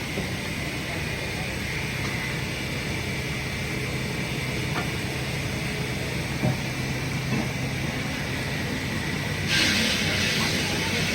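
Heavy machinery running steadily with a low hum and a hiss, a couple of faint knocks in the middle, and a louder hiss starting near the end.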